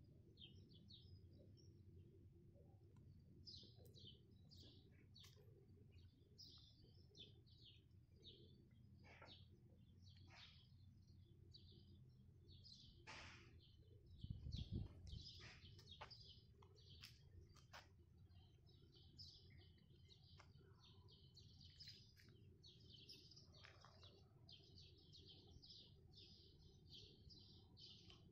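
Many small birds chirping continuously, faint, over a steady low rumble. There is a brief low bump about halfway through.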